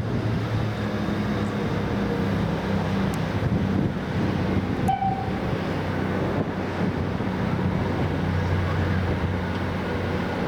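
A railway train running, with a steady low mechanical drone and rumble throughout.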